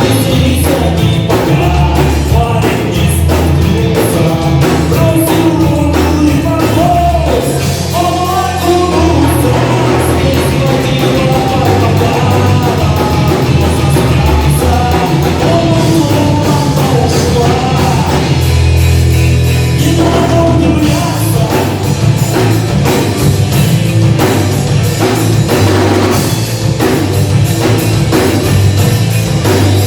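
Rock band playing live, with a drum kit and a sung vocal line.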